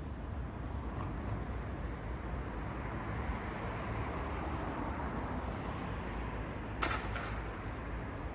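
City street traffic: a steady low rumble, with a vehicle passing that swells and fades through the middle. Two sharp clicks close together near the end.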